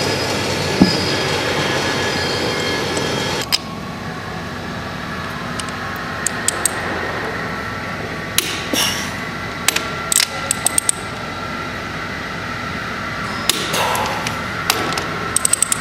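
Scattered sharp metallic taps and clicks of hand tools working on a pump head, several in quick clusters, over a steady workshop hum. A louder rushing noise cuts off suddenly about three and a half seconds in.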